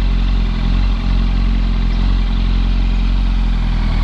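Yamaha R1 sport bike's inline-four engine running steadily at low revs, its pitch holding level.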